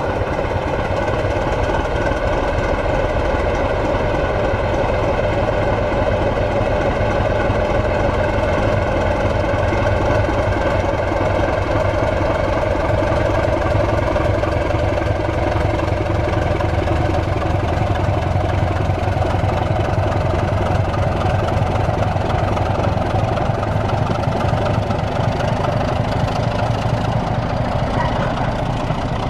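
A large diesel engine idling steadily, an even, unchanging throb.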